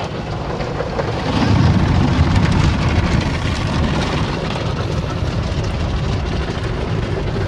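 Rotating car wash brushes scrubbing over the car, heard from inside the cabin as a dense patter of brush strips against the body over a steady rumble, growing louder about a second and a half in.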